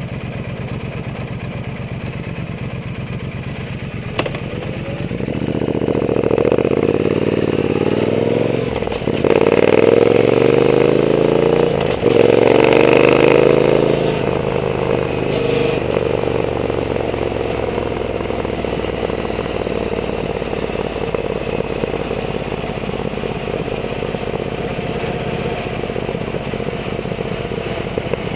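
Triumph Bonneville T120's 1200 cc parallel twin through a Zard exhaust, running at low revs, then accelerating through the gears from about five seconds in, with short breaks at two upshifts. It then settles into a steady cruise.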